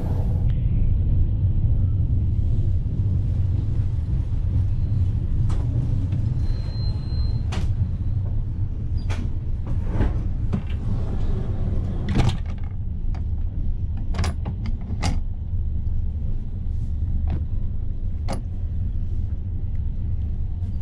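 Steady low rumble of a passenger train coach running along the rails, heard inside a couchette compartment. Through the middle, a series of sharp clicks and knocks, the strongest about twelve seconds in, as the compartment door's handle and lock are worked.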